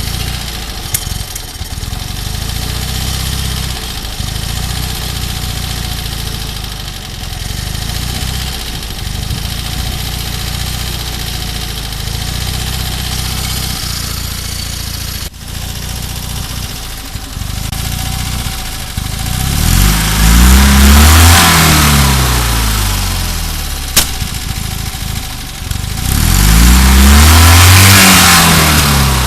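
Fiat 126p's two-cylinder air-cooled engine idling steadily, then revved up twice near the end, each time climbing in pitch and dropping back to idle, running again after standing unused for five years.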